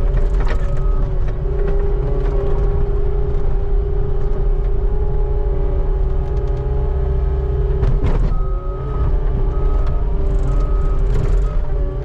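Skid steer running steadily under work, with a deep engine rumble and a constant whine. Short high beeps come at the start and again through the last few seconds, and there is a sharp knock about eight seconds in.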